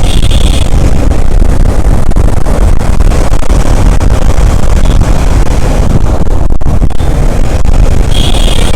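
Loud, steady wind rush and road noise on a motorcycle-mounted or helmet microphone while riding through traffic, with the motorcycle's engine running underneath.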